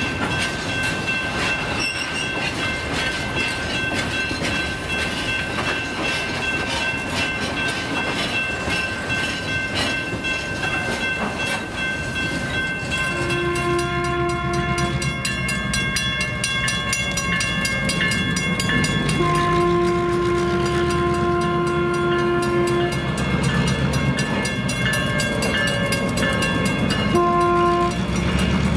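Molten-steel bottle cars (torpedo cars) rolling past, the wheels clicking over rail joints under a steady high-pitched ring. About 13 seconds in, a diesel switcher locomotive rumbles up to a grade crossing and sounds its horn: a long blast, a longer one, then a short one near the end, the start of the grade-crossing signal.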